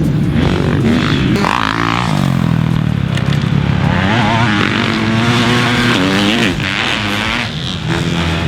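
2021 Husqvarna FC250's four-stroke single-cylinder engine being ridden hard, its pitch rising and falling repeatedly as the throttle is opened and closed and the rider shifts. It gets quieter about six and a half seconds in.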